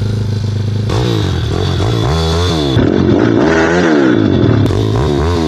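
Motocross bike engine running loud and being revved up and down several times, its exhaust without a dB-killer baffle.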